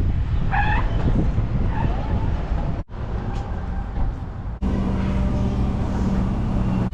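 Road vehicle driving: steady engine and road noise, broken by two abrupt cuts about three and four and a half seconds in, after which a steady engine hum carries on.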